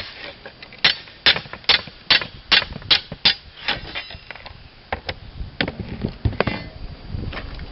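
Hammer striking a slate ripper to pull slate roofing nails: sharp metal strikes about two or three a second for the first three seconds or so, then a few scattered knocks and scrapes.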